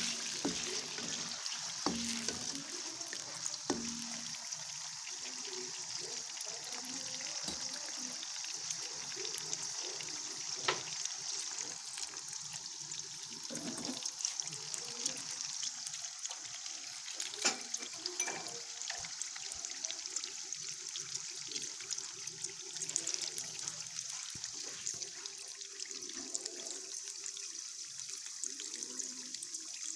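Cubes of tofu frying in hot oil in a wok: a steady sizzle, with a few sharp knocks of a spatula against the pan.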